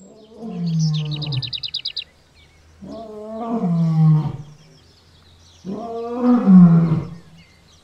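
Recorded lion roars: three in a row about two and a half seconds apart, each dropping in pitch at its end. A short, fast bird trill sounds over the first roar.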